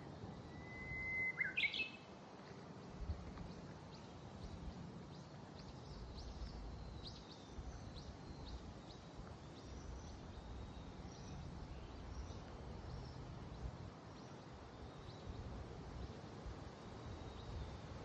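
Wild bird calling: a held whistled note and a sharp high call near the start, the loudest sounds, then a long run of faint, short, high chirps. Low wind rumble on the microphone throughout.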